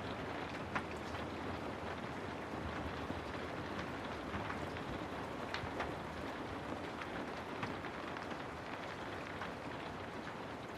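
Steady rainfall, with scattered louder drips of individual drops standing out against the rain.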